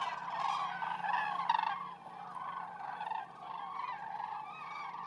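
A flock of common cranes calling, many overlapping calls at once, louder for the first two seconds and then softer.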